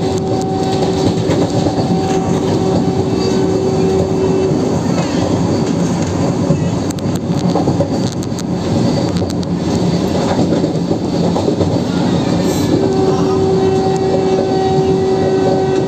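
Vande Bharat Express electric multiple-unit train running: a steady rumble of wheels on the track with some clickety-clack. A steady hum fades out about four seconds in and comes back about three seconds before the end.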